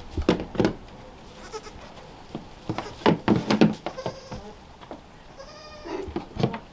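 Kiko goat kid bleating, one high bleat near the end, among bursts of sharp knocks and clatter.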